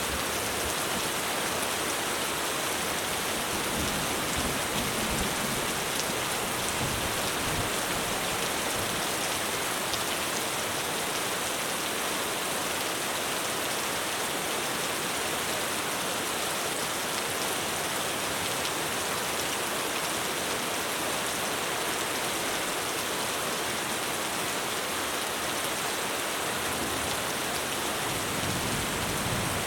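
Heavy rain drumming steadily on a roof, a dense even hiss. Low thunder rumbles in the first few seconds and again near the end.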